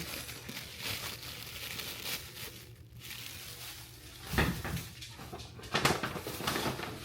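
Rustling and knocking of grocery packaging and produce being handled and set down, with two louder knocks about four and six seconds in.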